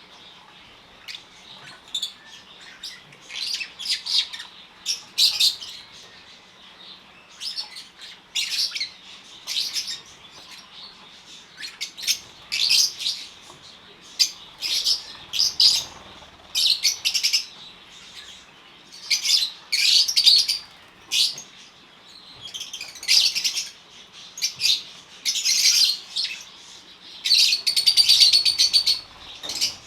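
A flock of African lovebirds chirping shrilly in short, overlapping bursts about every second, with a loud cluster of calls near the end.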